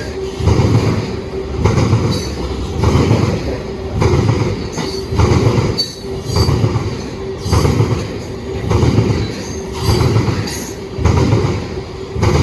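Freight cars of a long mixed train rolling past, their wheelsets clattering over the rail joints in a steady, even rhythm of loud pulses under a faint steady tone from the wheels.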